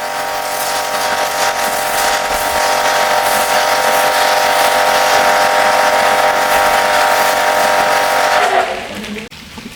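High-pressure washer running and spraying: a steady motor tone under a loud hiss, which stops near the end.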